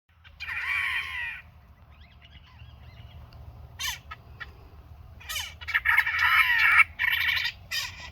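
Several birds giving harsh, crow-like calls in repeated bouts, loudest and longest a little past the middle: alarm calls at an intruder near their nests.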